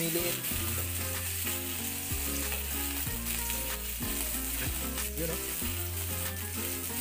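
Stuffed squid sizzling in hot oil in a pan: a steady frying hiss.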